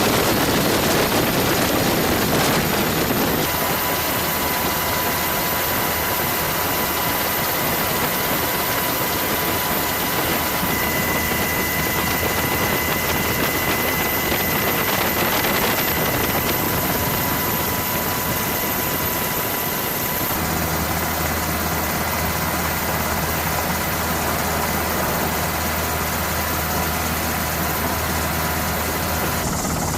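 Steady engine roar with a thin high whine over it. The sound changes abruptly twice, and a deeper hum joins for the last part.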